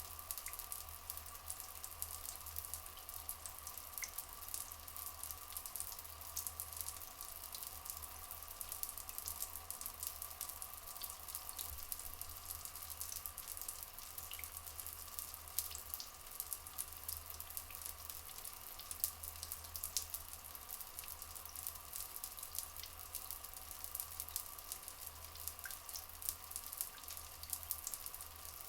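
Trickling, dripping water running steadily in a rainforest ambience, with a dense fine crackle of drops, a steady high drone underneath, and a few brief faint chirps.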